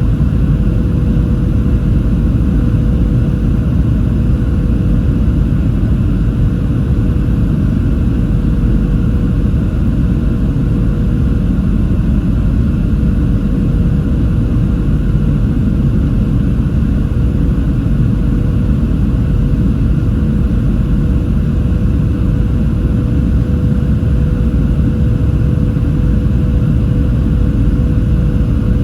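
Cabin noise inside a Boeing 737-700 in flight: a loud, steady deep rumble of engines and airflow with a thin, unchanging hum above it.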